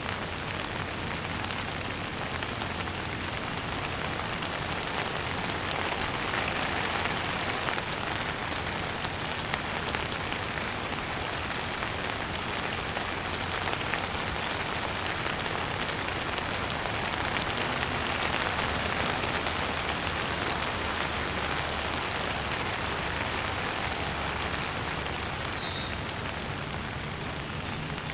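Steady rain falling: an even hiss of dense patter that swells slightly around the middle.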